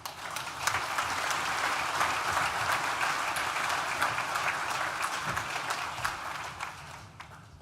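Audience applauding: many hands clapping, swelling within the first second and dying away near the end.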